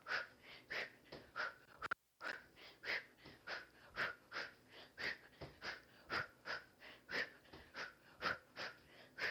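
A person breathing out sharply and rhythmically, about two short hissing breaths a second, in time with the punches and kicks of a kickboxing drill. The sound drops out completely for a moment about two seconds in.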